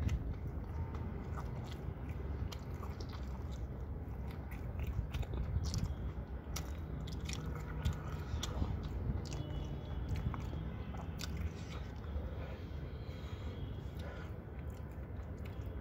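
Someone chewing and crunching food close to the microphone, with many small irregular clicks over a low, steady rumble.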